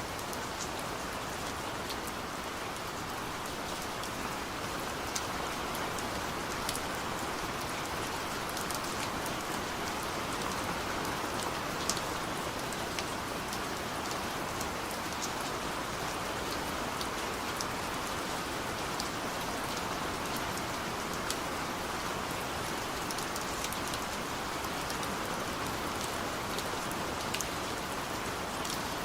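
Heavy rain pouring steadily: a dense, even hiss of rain on a surface, with scattered sharp ticks of individual drops.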